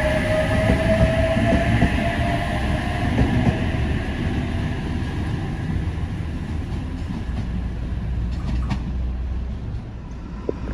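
A train running with a steady low rumble. A whine fades out over the first few seconds, and the whole sound eases off toward the end.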